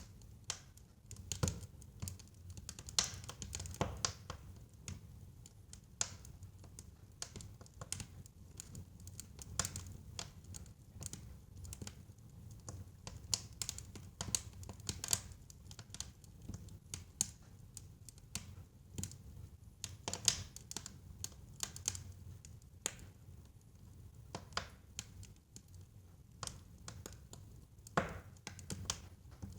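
Wood fire burning in a fireplace: dense, irregular crackles and sharp pops over a steady low rumble of the flames.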